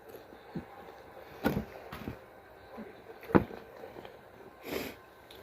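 Close-up mouth sounds of someone chewing the last bite of a taco, with two sharp knocks, the louder about three and a half seconds in, and a short rush of noise near the end.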